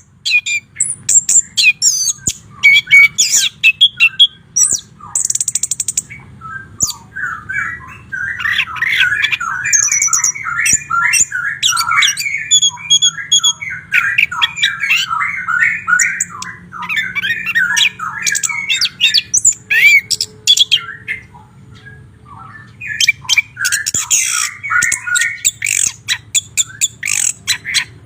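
White-rumped shama (murai batu) singing: a fast, varied run of sharp clicking notes and high whistles, with a dense warbling stretch in the middle. There is a short pause about three-quarters of the way in, then more rapid notes.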